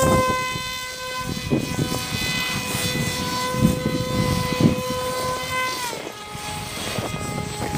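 Small electric RC plane motor and 6×4 propeller whining at a steady high pitch, dropping in pitch about six seconds in as the throttle comes back. Gusts of wind buffet the microphone underneath.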